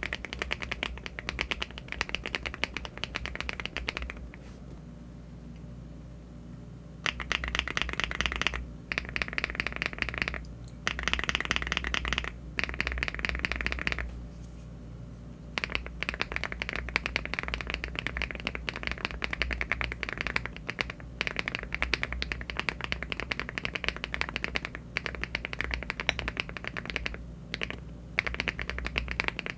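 Rapid mechanical-keyboard typing on a LEOBOG Hi75 aluminium keyboard fitted with HMX switches and Cherry-profile keycaps: dense runs of keystroke clacks. The typing breaks off twice, at about four seconds in and again around fourteen seconds, then carries on steadily.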